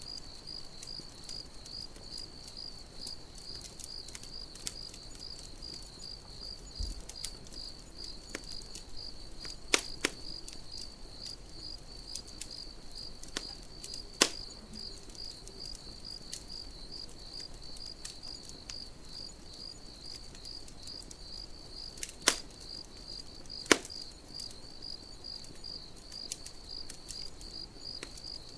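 Campfire crackling with soft ticks and four louder sharp pops spread through, over crickets chirping steadily in a high, evenly pulsed trill.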